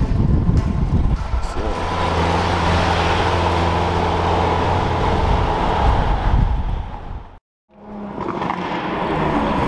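Car engine idling steadily at close range. The sound cuts out for a moment about seven and a half seconds in, then carries on.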